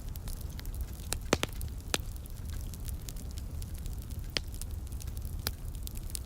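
Wood fire in a fireplace crackling, with frequent small ticks and five or so sharper pops. A steady low rumble runs underneath.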